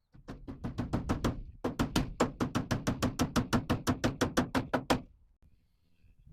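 A rapid, regular series of sharp knocks, about six a second, in two runs: a short run, a brief pause, then a longer run that stops abruptly about five seconds in.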